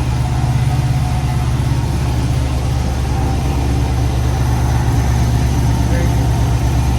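Cammed, supercharged LS V8 of a Trailblazer SS idling steadily on its first start-up after the build, with a faint high whine coming in about halfway through.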